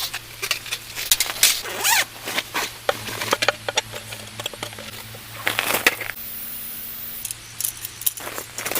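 Objects being handled at close range: an irregular run of clicks, knocks and scrapes, with a faint steady low hum underneath.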